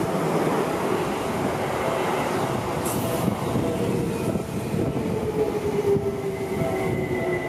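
Electric commuter train running close by, its wheels rumbling on the rails. In the second half a motor whine falls slowly in pitch as the train slows.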